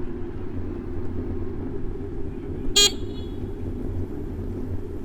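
City street traffic rumbling steadily, heard from a moving bicycle. About three seconds in comes a single brief, high toot that rings on for a moment.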